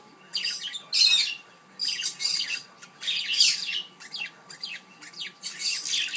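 Pet parrots squawking: a run of about eight short, harsh, high-pitched calls in quick succession.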